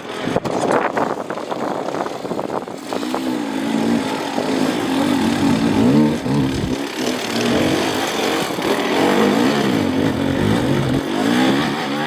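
Off-road dirt bike engine revving, the pitch rising and falling repeatedly as the throttle is worked on and off.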